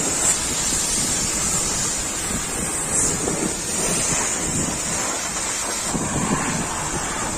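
Steady rushing hiss of a high-pressure water jet spraying against a truck during washing.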